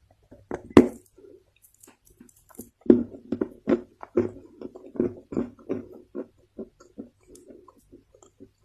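Soft Chinese loess crunching: one sharp crunch just under a second in, then a run of softer crunches, about two or three a second, thinning out near the end.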